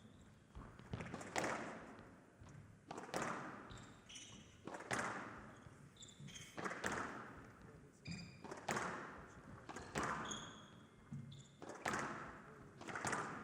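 A squash rally: racket strikes on the ball and the ball hitting the court walls, a sharp crack about every two seconds with a short ring after each, and brief high squeaks from players' shoes on the court floor in between.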